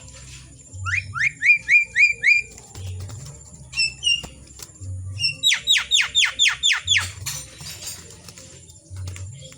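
A jalak (starling) singing loudly: a run of about six quick rising whistles, a couple of single notes, then a fast series of about eight falling whistles ending in a short harsh rasp.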